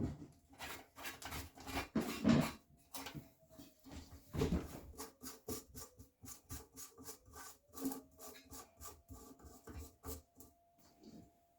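Irregular small clicks, knocks and rubbing of hands and tools working on toilet tank parts, a few sharper knocks among them.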